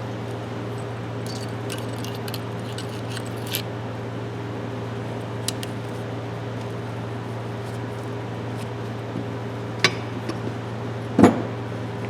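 Metal adjustable wrenches being handled: a few faint metallic ticks, then a sharp click and a louder clink near the end, over a steady low hum.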